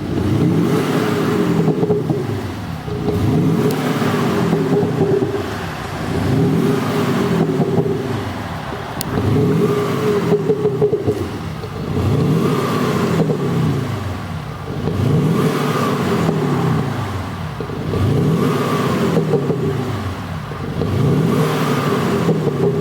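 BMW G30 520d diesel revved again and again on the spot, about one rev every two and a half seconds, each rising then falling in pitch. Its exhaust note comes from an aftermarket active sound system, which plays a large-engine performance sound over the diesel.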